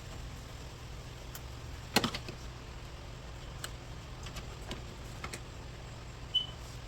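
Tools and parts being handled: a sharp clack about two seconds in, then scattered light clicks and a brief high squeak near the end, over a steady low hum.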